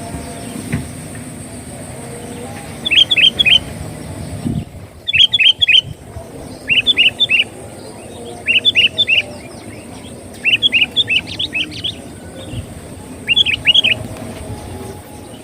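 Sooty-headed bulbul (kutilang) singing: six short, loud phrases of three or four quick chirping notes each, repeated every couple of seconds, as used for luring the species.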